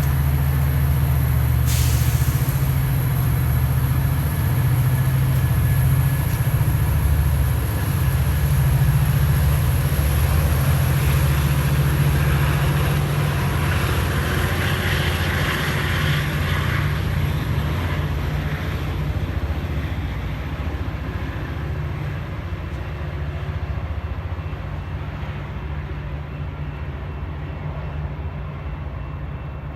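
Metra commuter train's diesel locomotive running with a steady low rumble, with a short hiss of air about two seconds in. The sound fades steadily over the last third.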